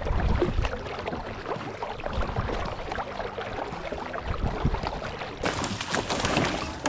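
Kayak paddle strokes splashing and dripping in lake water, with wind rumbling on the microphone. The sound turns brighter and hissier near the end.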